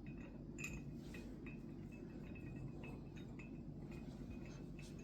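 Faint metal clinks and light scrapes of a steel trowel working wet cement, scattered irregularly over a low steady background.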